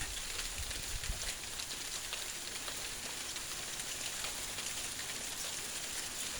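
Hailstones falling and striking surfaces: a steady hiss dense with many small, sharp ticks of individual impacts.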